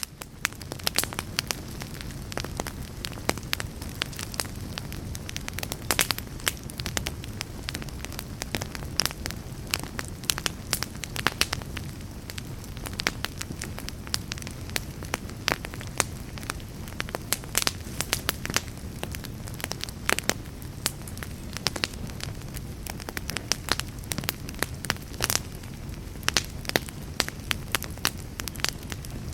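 Fire in a fireplace crackling steadily: frequent irregular sharp pops and snaps over a low, continuous rush of the flames.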